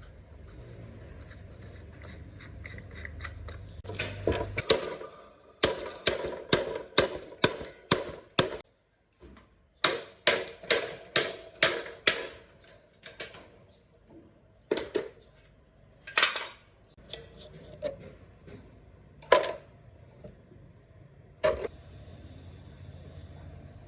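Hand-tool work on a fan: runs of sharp clicks or taps at about two a second, then a few single knocks. A low hum runs under the opening seconds, stops, and comes back near the end.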